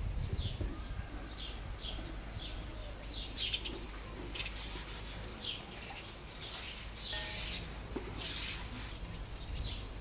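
Small birds chirping outdoors: short, falling chirps repeated about once or twice a second, over a steady high thin whine and a low rumble.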